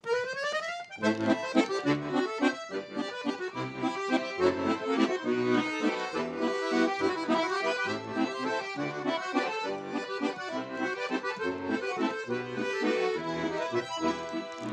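Russian garmon (button accordion) playing the instrumental introduction to a folk song. It opens with a quick rising run of notes in the first second, then a lively tune over a steady pulsing bass-and-chord accompaniment.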